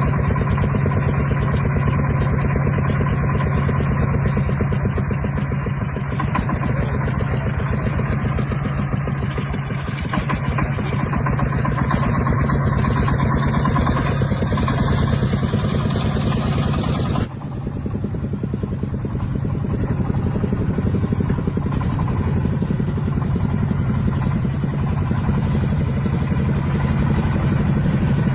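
Tractor engine running steadily with a fast, even beat and a strong low hum. About two-thirds of the way through the sound changes abruptly and turns duller, the higher sounds dropping away, then the engine carries on.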